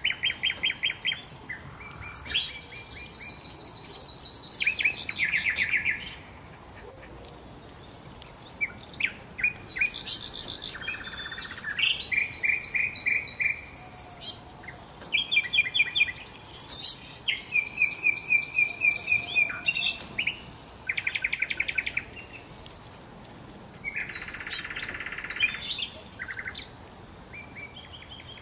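Songbirds singing: rapid high trills and runs of quickly repeated notes, in phrases of one to four seconds with short pauses between them.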